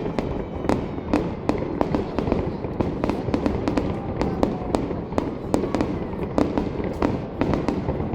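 Fireworks display: many sharp bangs of bursting shells, several a second at irregular intervals, over a continuous rumble of the salvo.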